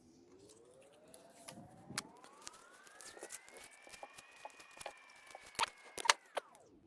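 A faint whine that rises steadily in pitch for about four seconds, holds, then falls away near the end, over scattered small clicks and crackles of black electrical tape being handled; two sharper clicks near the end are the loudest sounds.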